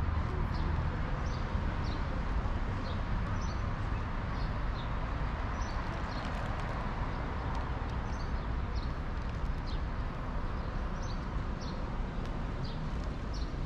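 Small birds chirping, many short high chirps at irregular intervals, over a steady low rumble of city street noise.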